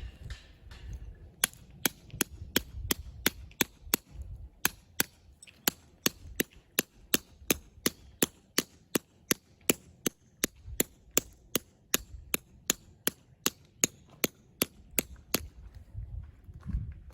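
Sharp knocks in a steady, even rhythm, about three a second, starting about a second in and stopping shortly before the end.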